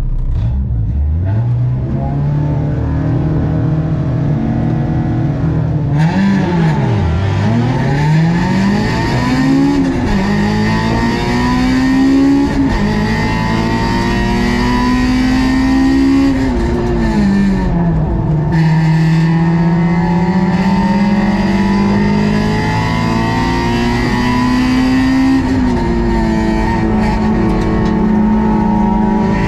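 Honda S2000 AP2's stock 2.2-litre four-cylinder engine pulling away from low revs about a second in and revving hard through the gears, the pitch dropping back at each upshift. Around three-quarters of the way through the revs fall for a couple of seconds, then it accelerates again.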